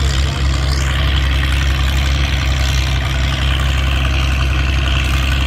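Naturally aspirated diesel engine of an Oliver tractor running steady and loud under heavy load while pulling the sled, holding on rather than falling on its face.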